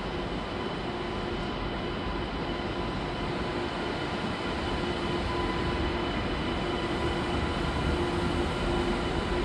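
Double-deck TGV high-speed train running past along a station track: a steady rumbling rush with a constant hum, growing slightly louder about halfway through.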